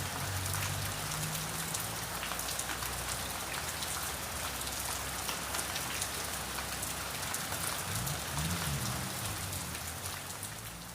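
Steady rain falling, with many individual drops ticking on a surface, over a faint low hum that bends up and down in pitch about eight seconds in. The sound begins to fade near the end.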